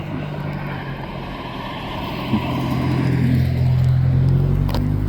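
A car driving past on the road, its engine hum and tyre noise growing louder about two seconds in and loudest around four seconds in.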